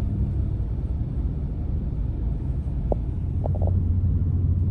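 Steady low rumble of road and engine noise inside a pickup truck's cab while driving on snowy roads, with a few faint short ticks about three seconds in.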